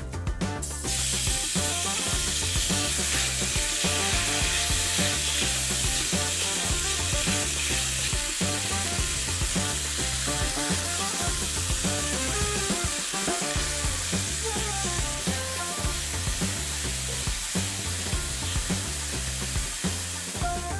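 Cubed chicken breast sizzling steadily in a hot, oiled cast iron grill pan; the sizzle comes in suddenly about a second in as the meat hits the pan. Background music plays underneath.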